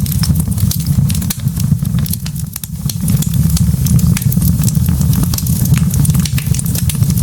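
Wood fire of burning logs crackling, with frequent sharp, irregular pops and snaps over a steady low rumble of the flames.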